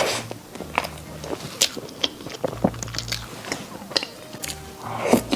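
Close-up eating sounds: bites and chewing, with many small mouth clicks, and a louder rush of noise at the start and again near the end.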